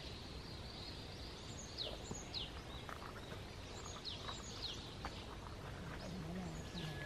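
Birds calling in woodland: short, high notes that fall quickly in pitch, often two in a row about half a second apart, repeating every second or two over a faint steady outdoor hiss.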